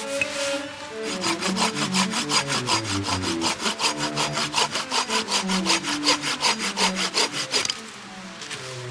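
Hand saw cutting through wood in quick, even back-and-forth strokes, stopping near the end.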